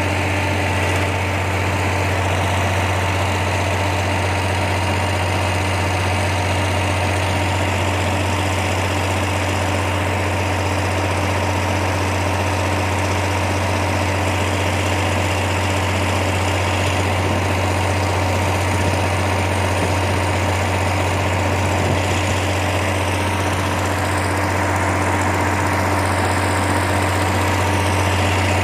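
Steady low mechanical hum of a running engine or motor.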